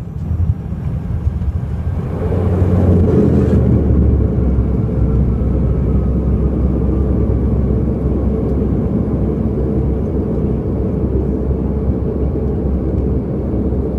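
Airliner cabin noise on the landing rollout: the rumble of engines and wheels surges about two seconds in, then holds as a steady heavy rumble with a faint falling whine.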